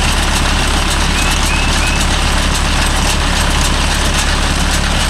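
Mahindra Yuvo Tech Plus 585 tractor running steadily while it drives a Bharat baler: a loud, constant mechanical din.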